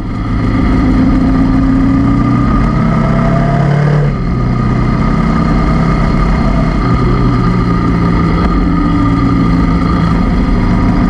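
Honda CB500X parallel-twin motorcycle engine running under way. Its pitch climbs and then drops about four seconds in, as at a gear change, and the engine runs steadily after that.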